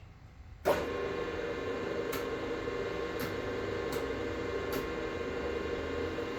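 Electric motor of a workshop machine switched on with a sharp start about half a second in, then running with a steady hum and a faint tick about once a second. The machine's coolant pump is not working.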